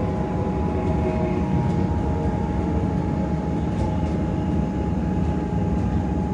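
Melbourne suburban electric train running as it comes into the station: a steady rumble with a whine from the electric traction motors.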